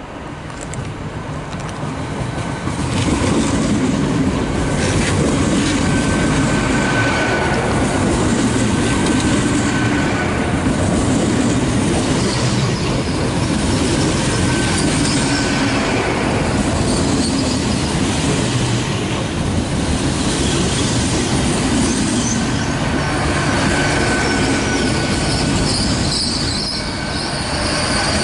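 Great Western Railway Hitachi Class 800 train, unit 800 306, running into the platform and passing close by, wheels rumbling on the rails with a thin high squeal coming and going. It grows much louder about three seconds in as the front of the train reaches the camera.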